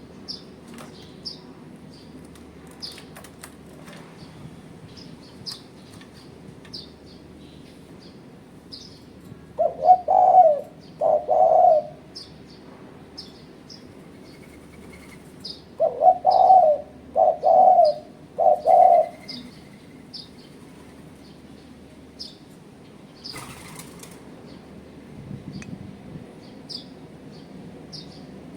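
Spotted dove cooing in two phrases, one of three notes about ten seconds in and one of four notes about sixteen seconds in. Thin high chirps repeat about once a second underneath, and a brief rustling burst comes near the end.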